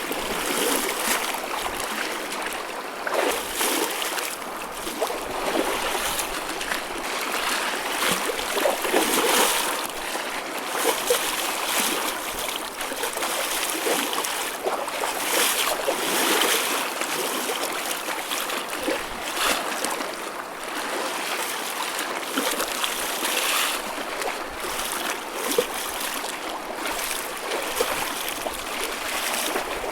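Choppy ocean waves: a continuous wash of water with repeated swells and small splashes, without a steady rhythm.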